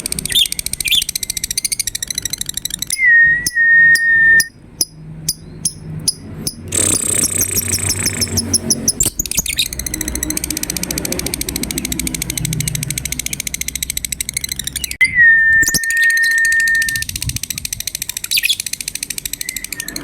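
Lovebirds chattering in rapid high trills, the bait call used to set other lovebirds calling. Two long, level whistles come a few seconds in and again about three-quarters through, over a fast, even ticking.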